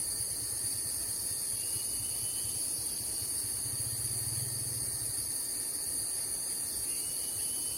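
Steady, high-pitched chorus of insects buzzing without a break, with a faint low hum beneath it. Two faint thin whistles rise slightly, one about two seconds in and one near the end.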